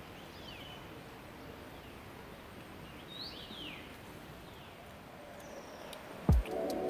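Forest birds chirping over the steady rush of a mountain stream, a few short falling calls with the clearest about three seconds in. Near the end there is a sudden loud thump, and music begins.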